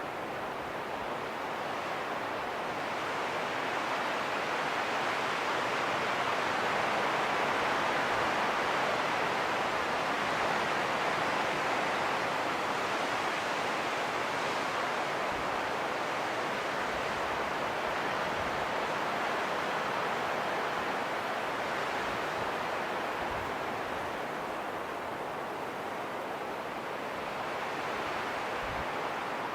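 Wind blowing in a steady rush that slowly swells and eases, with a few faint low thuds.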